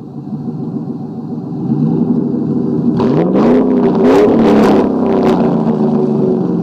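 2008 Chevy Silverado engine through a muffler-delete exhaust with headers and a Y-pipe, revving up: the pitch climbs from about two seconds in, is loudest and raspiest around four to five seconds, then eases back to a steady rumble.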